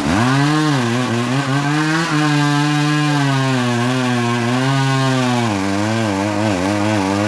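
Engine of a mobile sawmill running under load as the saw cuts through teak, its pitch sagging about half a second in and wavering again after about five seconds.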